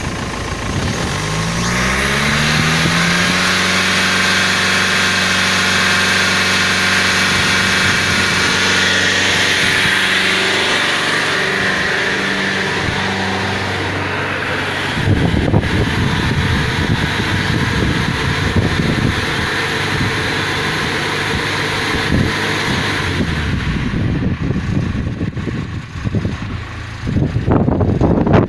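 BMW M47D20 2.0-litre four-cylinder turbodiesel running. Its revs rise a second or two in and hold steady, then drop back about halfway to an uneven, knocking run.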